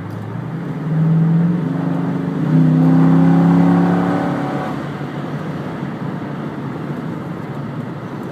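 Car engine heard from a moving car on the highway, its note swelling about a second in and again louder a little later as it accelerates, then settling back over steady road noise.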